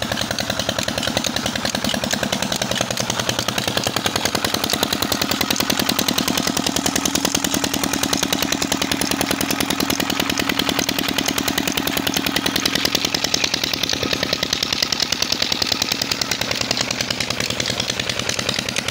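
Old tube well engine running steadily, with a fast, even beat of firing strokes.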